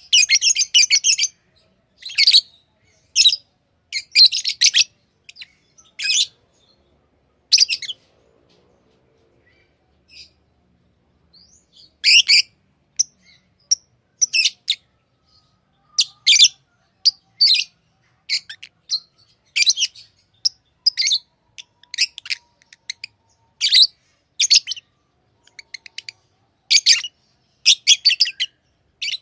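Pet lovebirds chirping: short, sharp, high-pitched chirps in quick clusters, with a lull of a few seconds about a third of the way in.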